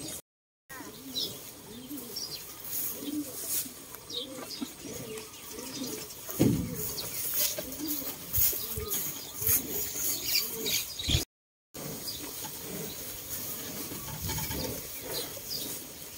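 Doves cooing over and over with small birds chirping, and one short, louder low sound about six and a half seconds in. The sound cuts out completely twice for about half a second.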